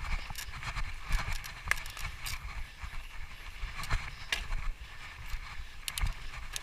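Mountain bike rolling over a rough dirt trail: steady tyre and ground noise with a low rumble, broken by scattered sharp clicks and rattles.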